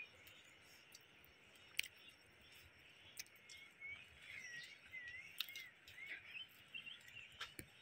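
Faint birds chirping in short, wavering calls, with a few sharp clicks now and then.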